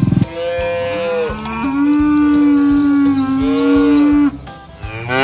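A cow mooing: one long call of about four seconds that starts higher, drops in pitch and holds steady, then cuts off. Another moo begins right at the end.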